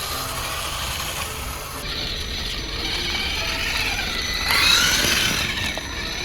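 Small geared motor whirring with a rattling gear noise, its whine rising and falling in pitch and loudest about two thirds of the way through.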